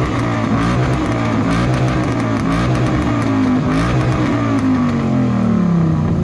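Car engine revved repeatedly through a loud exhaust in an exhaust competition, the pitch rising and falling with each blip and dropping away in a long fall near the end.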